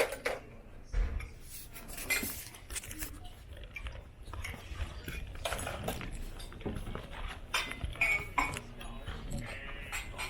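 Scattered light clinks and knocks, like tableware being handled, over a low steady hum, with faint background voices.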